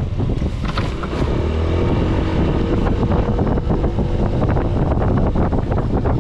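Small motorbike engine running while riding, with wind buffeting the microphone; the engine pitch briefly rises and falls between about one and three seconds in.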